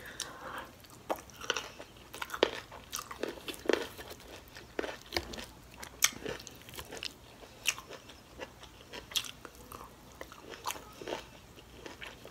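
A person chewing and biting mouthfuls of shrimp and broccoli stir-fry: a string of irregular sharp mouth clicks and smacks.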